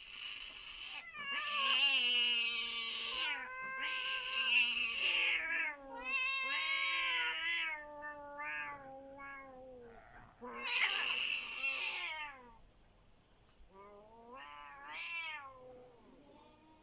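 Domestic cats yowling (caterwauling) in a territorial standoff between a female cat and a tomcat. It is a series of long, drawn-out, wavering yowls, some sliding down in pitch, with a shorter, fainter yowl near the end.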